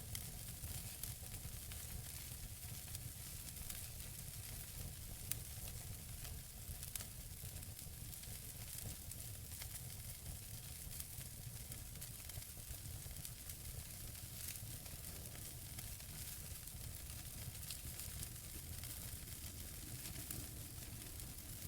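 Wood fire burning in a fireplace: a steady hiss and low rumble with scattered small crackles and pops of the burning logs, one sharper pop about five seconds in.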